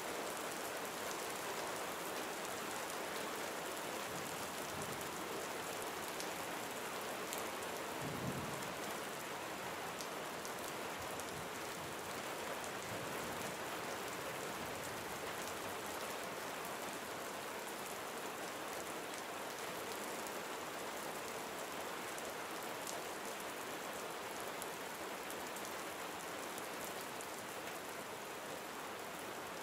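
Gentle summer rain falling steadily, individual drops ticking through it, with a brief low thump about eight seconds in.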